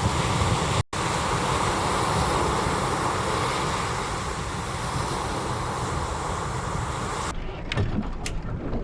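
Steady rush of wind and water noise from a small pleasure boat under way. It cuts out for an instant about a second in. Near the end it gives way to a quieter background with a few sharp clicks.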